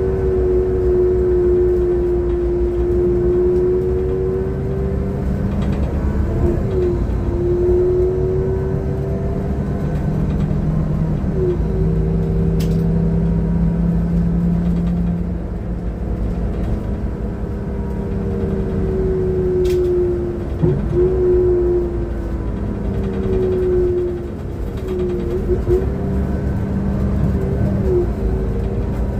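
City bus running through its gears on the road, heard from inside: a steady low rumble under a whine that rises and falls over and over as the bus speeds up and slows down. The uploader calls the engine sound bad.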